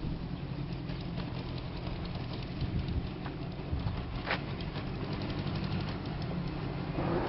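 Kawasaki KZ1000A2's air-cooled inline-four engine running steadily at an even speed, with a sharp click about four seconds in.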